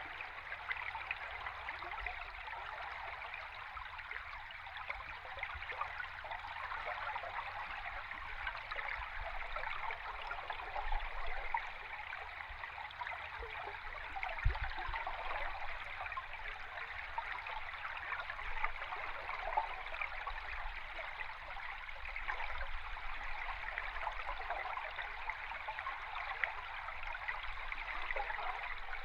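Stream water heard underwater: a steady rushing and bubbling of flowing water. A single brief low thump comes about halfway through.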